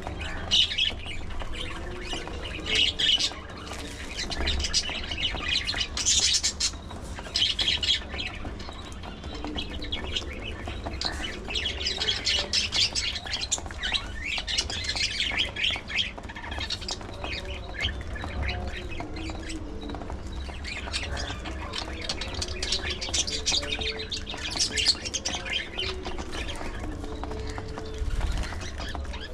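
A flock of budgerigars chattering and squawking, with dense high-pitched calls coming in waves over a low steady rumble.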